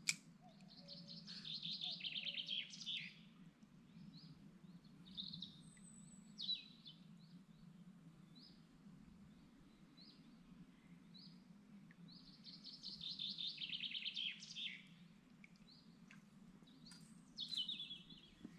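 A songbird singing two long trilled phrases, one about a second in and one about twelve seconds in, with scattered short chirps between, over a low steady hum.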